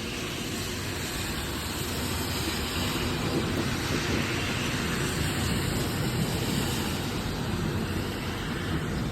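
Rolling thunder rumbling, swelling a few seconds in, over a steady hiss.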